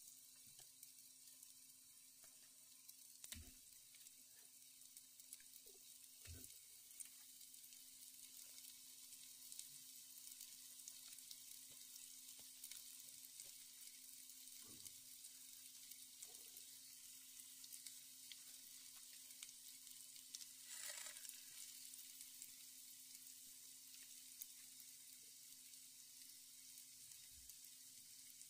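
Faint, steady sizzle and crackle of breaded bread-and-egg balls shallow-frying in oil in a nonstick pan. A few soft knocks come in between, as more balls are set into the pan.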